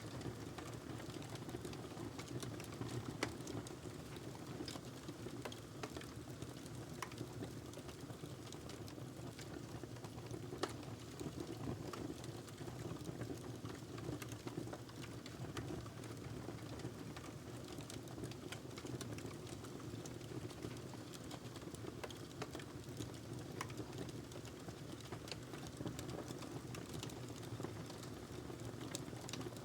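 Wood fire in a fireplace crackling, with frequent irregular sharp pops and snaps over a steady low background.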